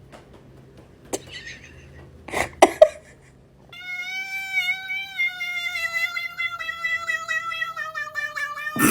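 A cat's long, drawn-out meow, held for about five seconds and slowly falling in pitch, after a few sharp knocks.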